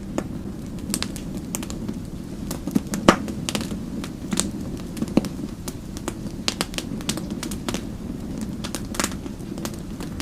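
Wood fire in a fireplace crackling: irregular sharp pops and snaps over a steady low rumble of flames, with one louder pop about three seconds in.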